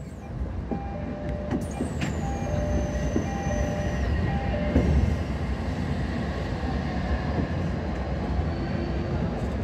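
Odakyu 1000 series electric train running, heard from inside the carriage: low steady rumble with a high electric whine that glides down in pitch over a couple of seconds. Over the first half a two-note electronic chime repeats several times.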